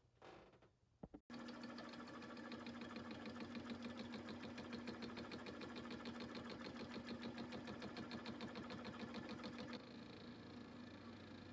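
Small workshop machine tool running, a steady hum with a fast, even pulsing over it, starting suddenly a little over a second in; near the end the pulsing stops and a lower steady hum remains.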